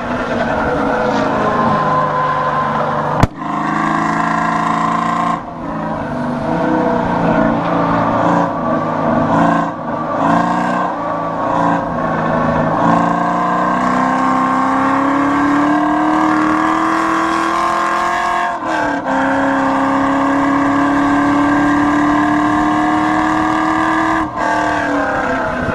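Pontiac Firebird's LS1 5.7-litre V8, fitted with intake and exhaust modifications, running hard on a race track. Its pitch climbs slowly under load and drops back a few times, as at gear changes, and there is one sharp knock about three seconds in.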